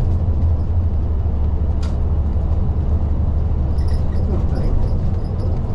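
Nishitetsu LDG-KV234Q3 bus running on the road, heard from inside the front of the cabin: a steady low engine and road rumble, with one sharp click about two seconds in.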